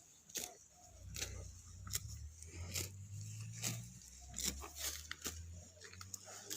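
A cow grazing: crisp tearing and crunching as it pulls up mouthfuls of grass, about once a second, over a low steady hum.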